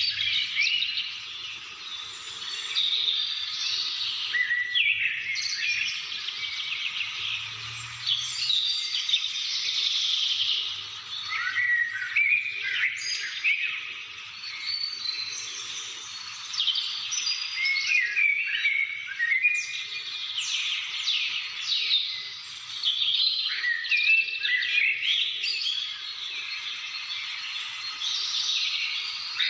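A chorus of several birds chirping and singing at once, with many short overlapping calls and quick rising and falling notes that swell and fade in waves.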